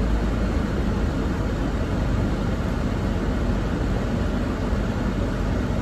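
Steady rushing of a car's air conditioning blowing on high inside the cabin, over a low, even rumble.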